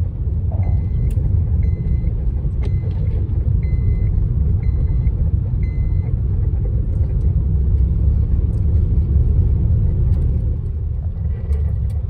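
A van driving, with a steady low road and engine rumble. For the first six seconds there is a faint short high pip about once a second.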